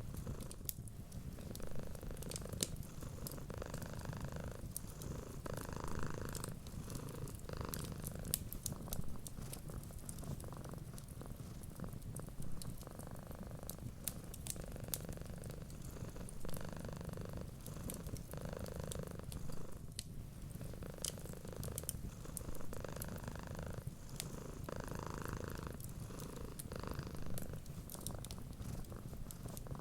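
Cat purring steadily, swelling and easing every second or two with its breathing, over the small pops and crackles of a wood fire.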